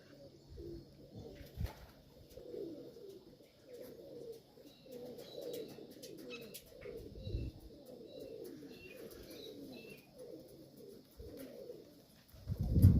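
Domestic pigeons cooing, several birds overlapping in repeated low, falling coos, with faint high chirps over them. A loud low rumble comes in just before the end.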